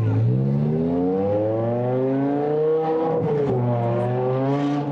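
Sports car exhaust rising steadily in pitch as the engine revs up. The pitch drops sharply about three and a half seconds in, then climbs again, over a steady low drone.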